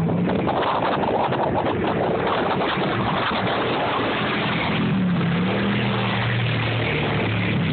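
Truck engine revving as it drives through deep water, with a steady rush of splashing water over it. The engine pitch rises and falls about two-thirds of the way through.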